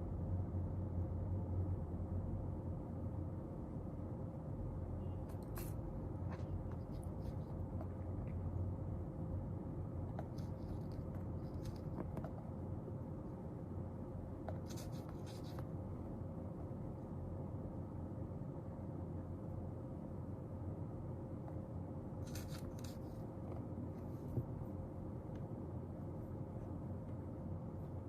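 Writing on paper in short scratchy spells, a few seconds apart, over a steady low room hum.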